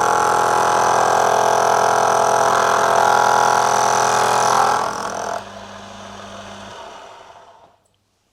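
A small metal lathe running, with a tool cutting the spinning brass part: a loud, steady machining noise over the motor's hum, with a high squeal. About five seconds in the noise drops to the motor alone, which winds down and stops about two seconds later.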